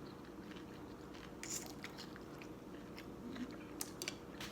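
A person chewing a mouthful of noodle soup: faint chewing with small mouth clicks, a brief louder crunch about a second and a half in and a few sharp clicks near the end.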